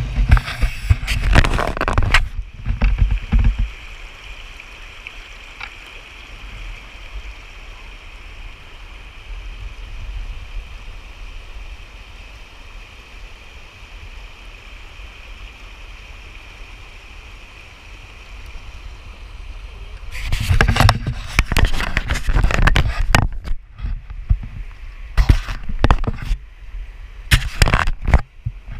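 Steady rush of flowing creek water. Near the start and again through the last third it is broken by loud, rough, irregular bursts of noise.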